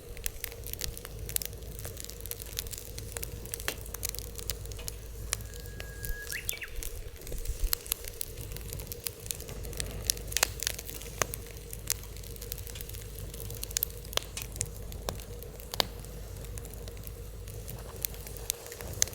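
Wood fire crackling, with frequent irregular sharp pops over a low steady rumble. A brief high whistle sounds about six seconds in.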